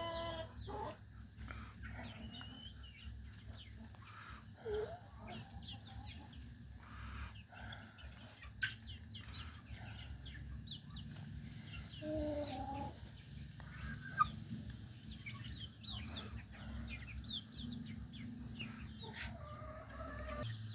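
A flock of chickens clucking and calling softly in scattered short calls, with a low steady rumble underneath.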